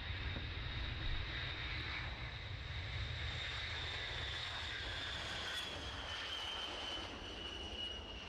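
B-52 bomber's jet engines running, a steady low rumble and rushing noise with a high whine that slowly drops in pitch as the aircraft moves past.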